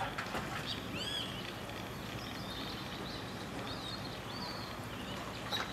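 Birds giving a few short, high chirps now and then over a steady outdoor background hiss.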